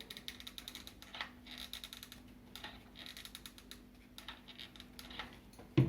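Hot glue gun being handled and its trigger worked: a run of quick, irregular light clicks and crackles over a faint steady hum.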